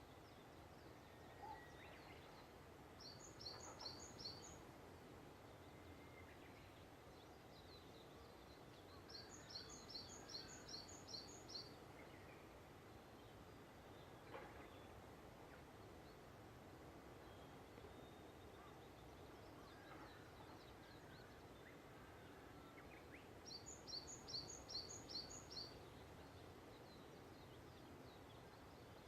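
A small songbird singing three phrases of quick, repeated high notes, spaced several seconds apart, over a faint steady background hiss.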